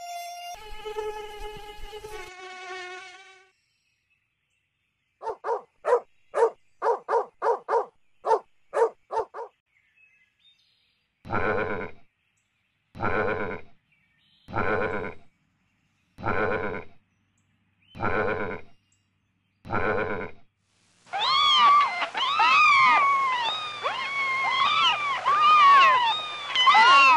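Sheep bleating seven times at even intervals, each call most of a second long and about a second and a half apart. Before it, a mosquito's buzz fades out and a run of about ten short, quick calls sounds. From about three-quarters of the way in, a dense, louder mix of many overlapping rising-and-falling high-pitched calls starts.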